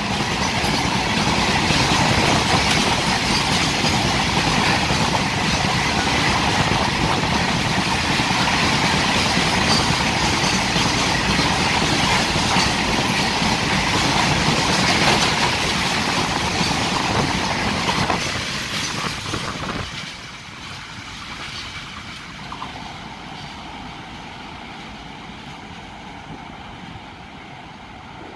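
Empty BOXN open-top freight wagons rolling past, a loud dense clatter of steel wheels on the rails. About twenty seconds in the last wagon goes by and the sound drops to a fainter rumble as the train draws away.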